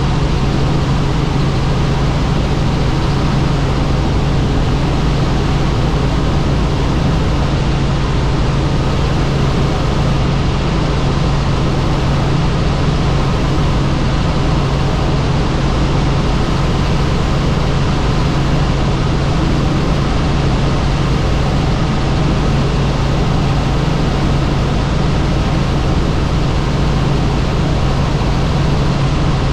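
Helicopter in flight: loud, steady engine and rotor noise with a constant low hum underneath.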